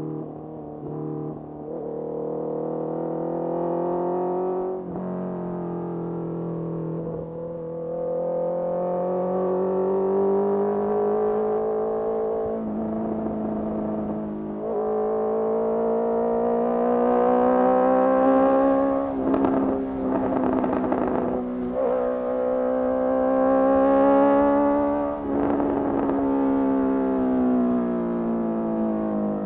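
Honda CBR650R's inline-four engine through a Mivv MK3 carbon exhaust, riding on and off the throttle: the engine note climbs and falls in pitch several times, with short breaks between.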